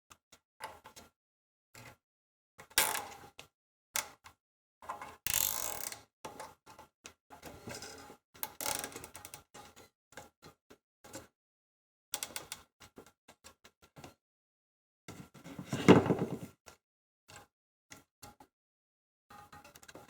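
Scattered clicks, taps and short rasps of small plastic and metal toaster parts being handled while a clamp is fitted to hold back the heat-deformed plastic that was stopping the bread platform from going down. A longer rasp comes about five seconds in, and the loudest, fuller scrape about sixteen seconds in.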